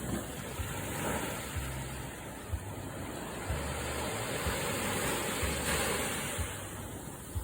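Ocean surf breaking and washing up a sand beach, a steady rush that swells about a second in and again through the middle. Short low thumps of wind on the microphone now and then.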